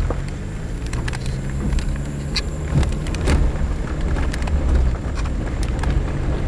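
Suzuki Jimny's engine running steadily while driving on a dirt road, with scattered knocks and rattles from the rough surface.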